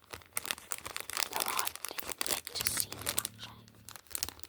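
Packaging crinkling and rustling with many small irregular clicks as products are unwrapped.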